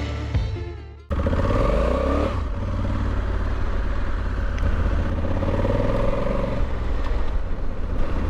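Music fading out, then about a second in a cut to a Honda Africa Twin 1100's 1084 cc parallel-twin engine, rising in pitch as the motorcycle accelerates, then running steadily at speed.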